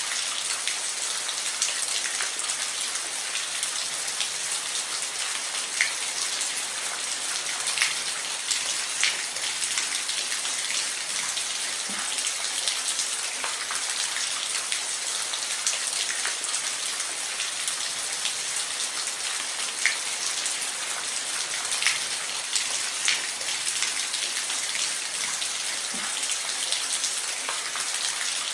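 Steady rain falling on a roof: a constant high hiss with scattered louder single drop ticks.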